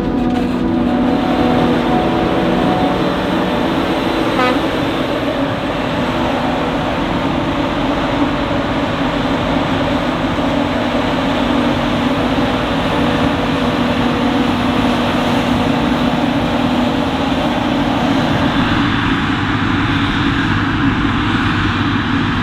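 Heavy farm machinery running steadily under load, the diesel engine hum and mechanical noise of maize harvesting machines. The sound thins a little in its middle range near the end.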